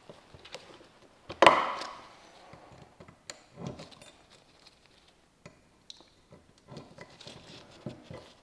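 Small metal clicks and taps of hand-fitted parts, with one sharper knock about a second and a half in, as a solenoid retainer is worked into place on an Allison transmission valve body.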